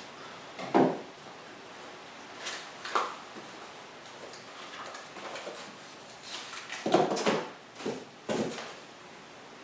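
Cardboard packaging being opened and handled by hand: scattered rustles, scrapes and a few short knocks, the loudest about a second in and around seven seconds.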